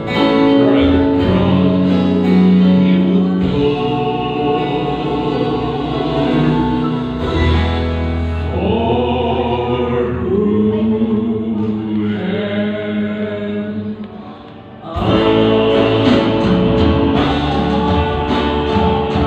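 Gospel-style singing with music, several voices holding long sung notes; it thins out and quietens briefly about two-thirds of the way through, then comes back in full.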